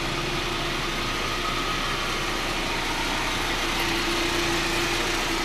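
A 1996–2000 Honda Civic's engine idling steadily, an even hum that does not change.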